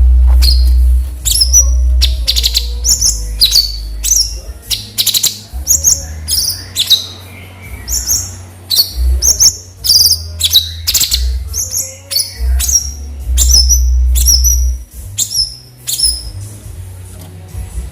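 Cucak cungkok bulbul calling: a rapid run of short, sharp chirps, each dropping in pitch, a couple of times a second, with a loud low rumble underneath in stretches.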